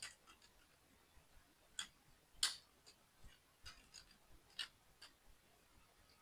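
Light clicks and taps of small plastic toy-model parts being handled during assembly, a dozen or so scattered at uneven intervals, the loudest a little over two seconds in.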